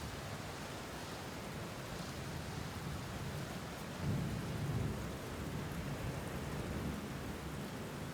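Steady rain falling, with a low roll of thunder swelling briefly about four seconds in.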